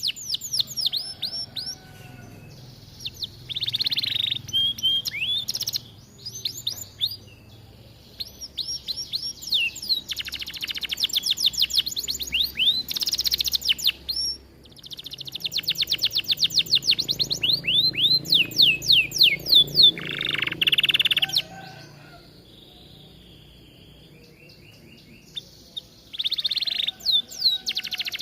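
Domestic canary singing a long, lively song of rapid repeated trills and rolls, phrase after phrase with short pauses and a longer break about three-quarters of the way through.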